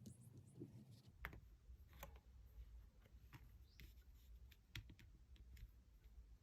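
Near silence with faint, irregular clicks and taps, roughly one or two a second, over a low hum.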